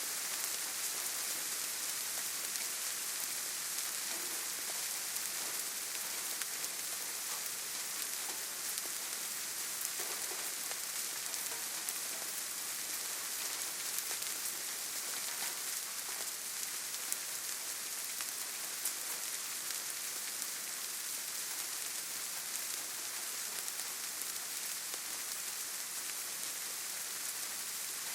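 Steady gentle rain falling on leaves and forest ground: a constant hiss dotted with many small drop ticks.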